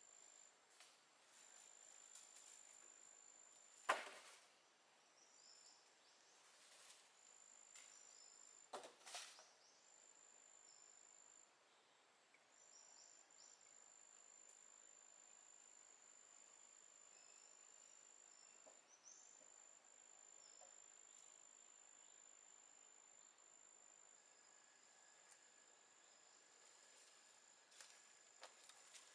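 Near silence with faint outdoor ambience: a thin, steady high-pitched insect trill that stops and starts. Two sharp knocks come about four and nine seconds in.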